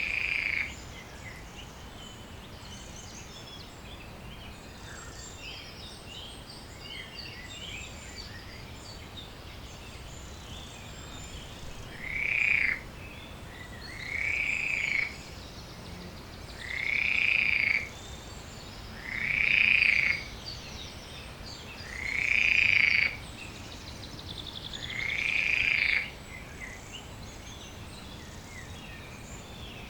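Loud animal calls at a pond, each under a second long and high in pitch: one at the start, then six more at even spacing of about two and a half seconds from about twelve seconds in. Faint small birds chirp behind them throughout.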